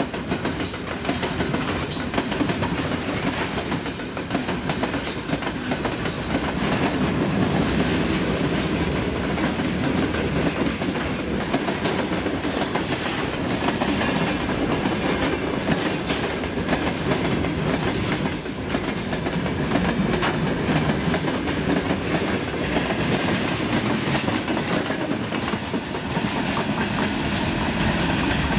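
Freight train wagons rolling past close by: a steady rumble with repeated clacking of wheels over rail joints and the rattle of covered wagons and container cars. The high clatter thins out at the very end as the last wagons go by.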